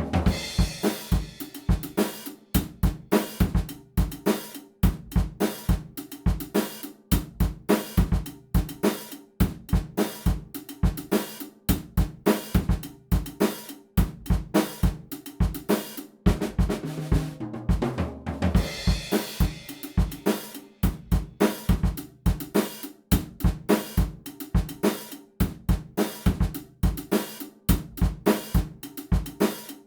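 Background music: a drum-heavy track with a steady, evenly spaced beat.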